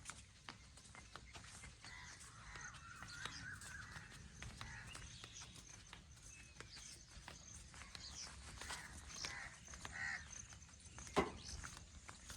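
Quiet outdoor ambience with birds chirping, scattered clicks and a low rumble, and one sharp knock about eleven seconds in.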